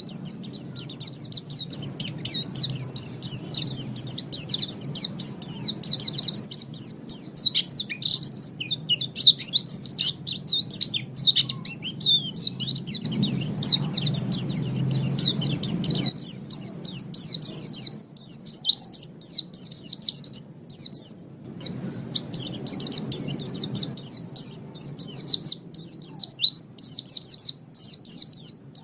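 White-eye (pleci) singing a long, fast, high-pitched twittering song of rapid chirps, broken by short pauses a little past halfway and about three quarters of the way through. Faint low background noise runs underneath.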